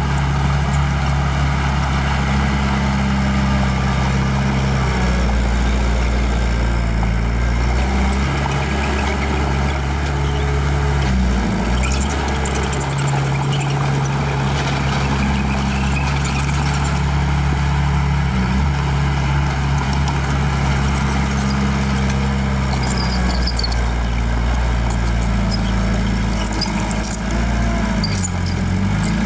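Small bulldozer's diesel engine running steadily under load. Its pitch dips briefly a few times as the load and throttle change, with scattered higher clatter over the top.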